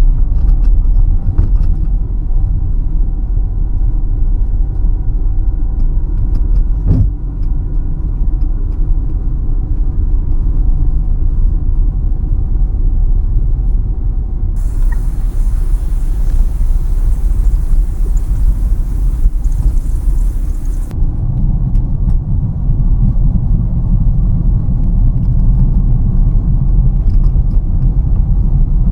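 Steady engine and road rumble of a car driving, heard from inside the cabin. There is a single short knock about seven seconds in. Near the middle, a hiss comes in suddenly and cuts off about six seconds later.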